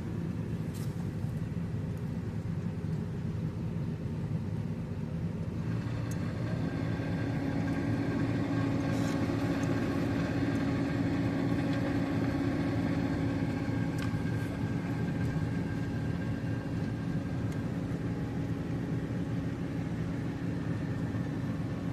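Car engine idling steadily, a continuous low hum; about six seconds in a second steady, higher-pitched hum joins it and holds.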